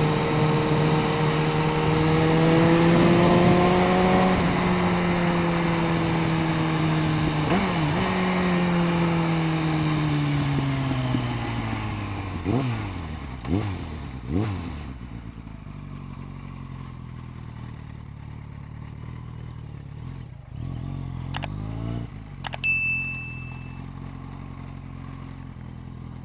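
Suzuki Bandit 650N's inline-four engine running on the road, its revs falling slowly as the bike slows, then three quick throttle blips about halfway through before it settles to a low idle. Near the end come two sharp clicks and a short high beep.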